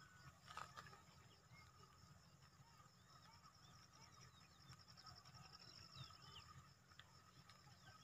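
Faint birds calling in scattered short chirps over a steady high trill, in quiet open country.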